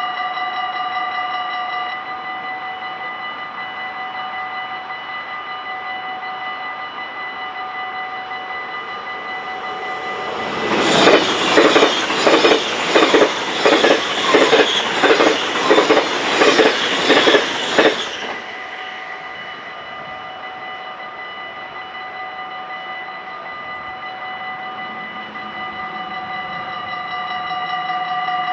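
Level-crossing bells ringing steadily as one unchanging multi-tone chime. From about ten seconds in, a double-deck NS passenger train passes at speed for about seven seconds, drowning the bells with loud rushing and a rhythmic clatter of wheels over the rails, about one and a half beats a second, then cuts off sharply.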